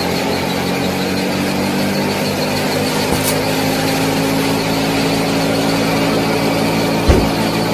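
Mini tractor and small thresher machine running steadily with an engine-like hum. There is a short click about three seconds in and a sharp thump near the end.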